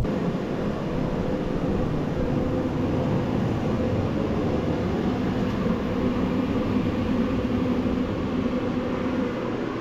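Jet aircraft rumble lingering after a low flyover: a steady, even roar with a faint hum in it, dropping a little near the end.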